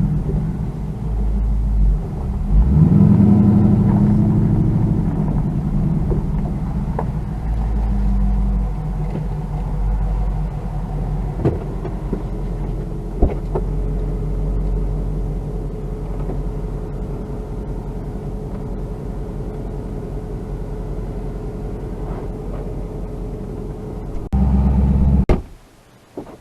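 Car engine running, revving up briefly about three seconds in, then running steadily until the sound cuts off near the end.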